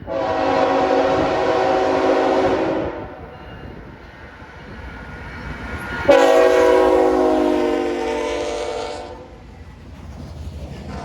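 Diesel locomotive air horn, several chime tones sounding together in two long blasts of about three seconds each, a few seconds apart. The low rumble of the train runs underneath.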